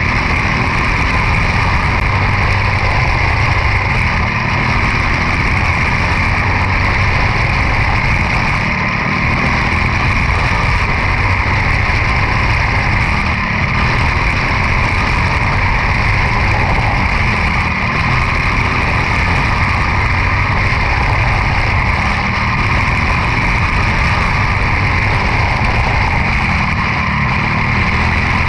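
Quarter midget race car's single-cylinder Briggs & Stratton Animal engine running steadily at racing speed.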